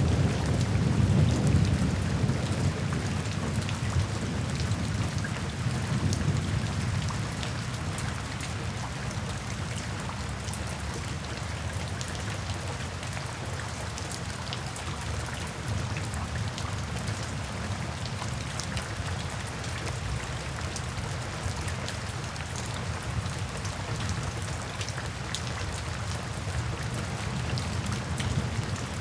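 Steady rain falling, an even hiss with scattered drop ticks. A low rumble of distant thunder is strongest at the start and dies away within the first several seconds.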